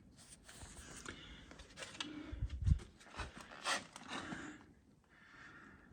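Irregular rubbing, scraping and clicking handling noises with a few low thumps about two and a half seconds in, then fading to a faint hiss.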